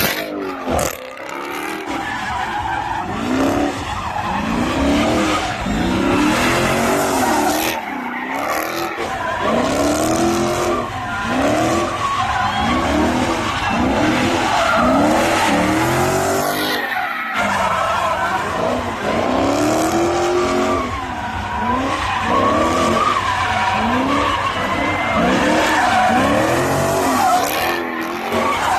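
A car sliding with its engine revving and tyres squealing and skidding. The engine note rises and falls in a steady cycle about once a second, with two brief dips near 8 s and 17 s.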